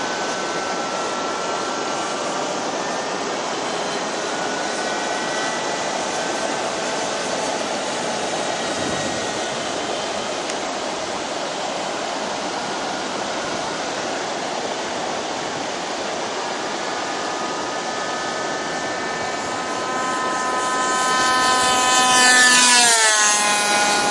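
Radio-controlled Águia 60 model airplane's engine whining steadily as it flies, over rushing wind noise. Near the end it grows louder and its pitch drops sharply as the plane makes a close flyby.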